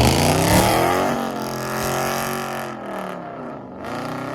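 Car engine revving, its note falling away after a rev, then rising and falling again, lowest about three and a half seconds in before it climbs once more.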